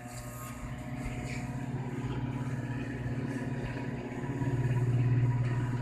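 Microwave oven running with a cranberry inside: a steady low hum that grows louder about four seconds in.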